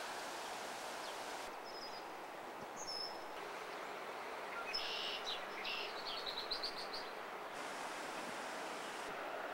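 Steady background hum of the city, with a bird chirping a couple of times early and then a quick run of high chirps about five to seven seconds in.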